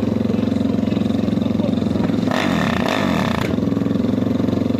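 Drag-racing motorcycle engines: one idles steadily with a fast pulsing beat, and a little over two seconds in another bike revs hard for about a second, its pitch sweeping, before the idle is heard alone again.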